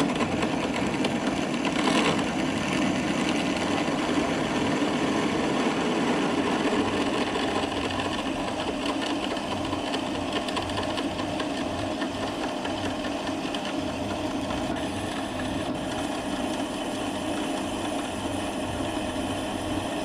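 Metal lathe running steadily while a drill bit held in a drill chuck bores out the metal workpiece to hole size.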